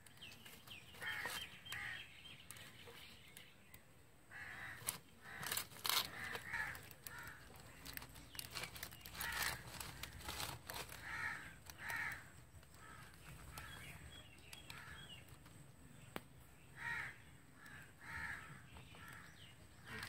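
Harsh bird calls, short and repeated irregularly, over scattered clicks and rustles of hands working string on a plastic basket.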